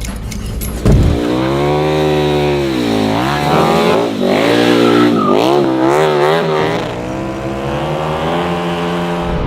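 Motorcycle engine revving, its pitch rising and falling again and again, fastest in the middle and steadier near the end. A sharp thump comes about a second in.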